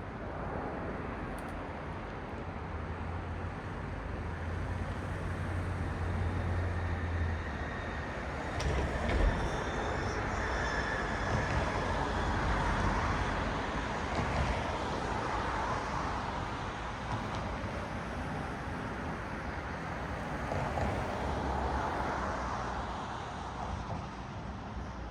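Road traffic: cars passing one after another, their tyre and engine noise swelling and fading. A low engine hum stops about seven seconds in, and a single thump sounds about nine seconds in.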